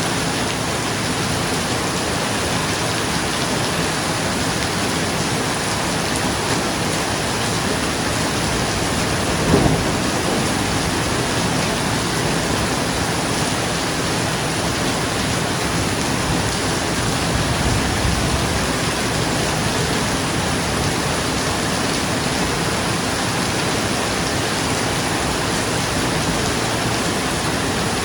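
Steady rain falling on a roof, with a short clap of thunder about a third of the way in and a low rumble of thunder some seconds later.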